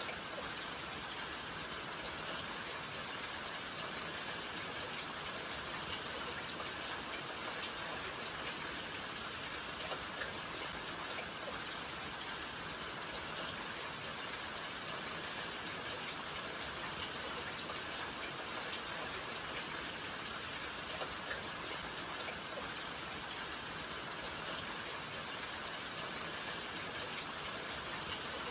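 Rain falling steadily, an even hiss of rain with scattered drop ticks on surfaces.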